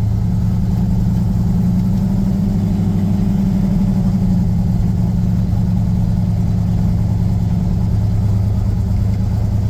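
Turbocharged LS V8 pickup engine idling with a steady low note that rises slightly in pitch a few seconds in.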